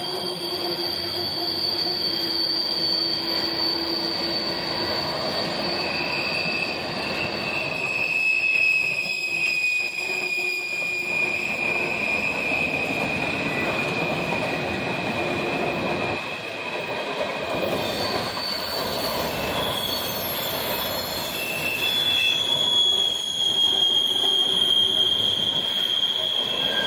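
Empty coal hopper cars of a freight train rolling past, with a continuous rumble of wheels on rail. High steady wheel squeals rise and fade again and again over it, strongest in the first half and again near the end.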